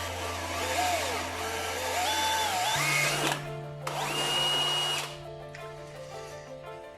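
Electric drill boring a pilot hole through a thick steel bumper with a small steel bit. The motor whine rises and falls in pitch, breaks off about three seconds in, and runs again for about a second, with background music under it.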